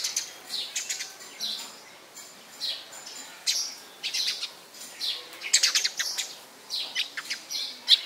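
Small birds chirping: short, sharp downward-sweeping chirps several times a second, with a quick flurry of calls just past the middle.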